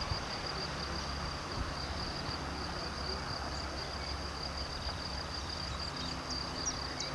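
A cricket or grasshopper trilling steadily at a high pitch over a low, steady hum.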